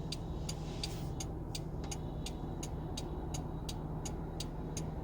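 Car turn-signal indicator ticking steadily, about three clicks a second, over the steady hum of the engine and road inside the cabin.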